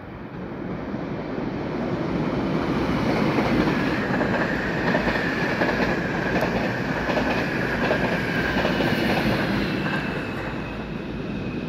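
Electric passenger train passing close by at speed: a rush of wheels on rail that builds over the first few seconds, holds loud through the middle with a steady high whine, and eases off near the end.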